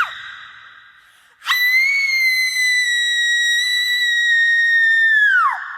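A horror sound-effect shriek: one long, very high-pitched scream that swoops up at the start, holds steady for about four seconds, then drops away sharply in pitch, with heavy echo trailing off after it.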